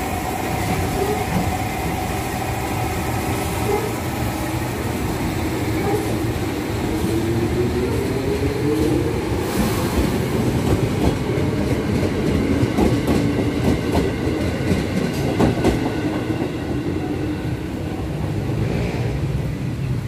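KRL Commuter Line electric train running past along the platform. Its motor hum rises in pitch, and through the middle come rapid clacks of the wheels over the rail joints.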